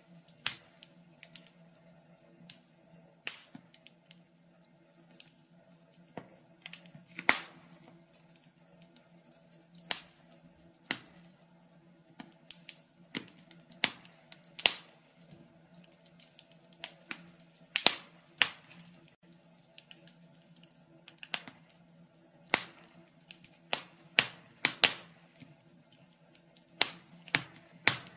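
Burning logs in a fireplace crackling, with irregular sharp pops and snaps, a few louder than the rest, over a faint steady low hum.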